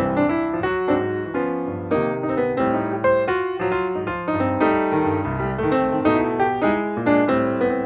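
Background music: a piano piece with a steady run of notes.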